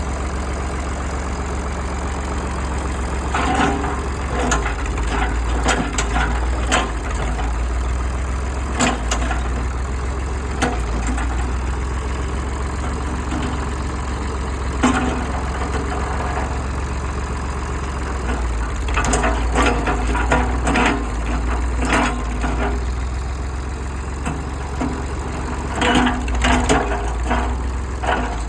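Mid-1960s farm tractor engine running steadily, with scattered sharp knocks and cracks over it, in clusters several times.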